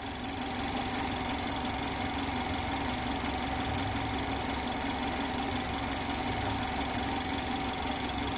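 2010 Chevrolet HHR engine idling steadily at operating temperature, thermostat open, while air is being burped out of the cooling system.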